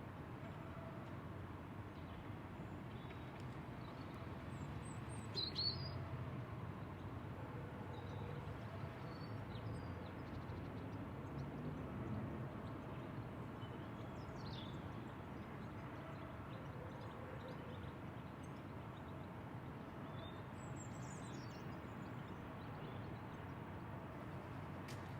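Outdoor ambience: a steady low rumble of background noise with scattered short bird chirps, the loudest about five seconds in and another brief run of chirps near the end.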